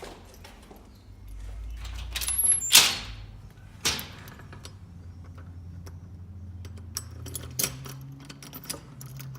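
A door sliding and knocking shut: a rising rush ends in a loud knock about three seconds in, with a second knock a second later. Light clicks and jangling follow over a low steady hum.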